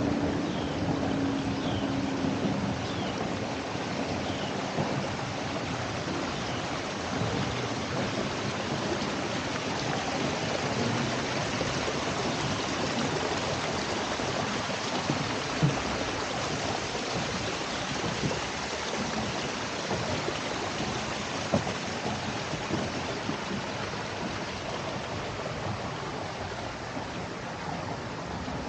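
Steady rushing, splashing water noise, like water moving against a kayak hull, with a few faint bird chirps in the first few seconds.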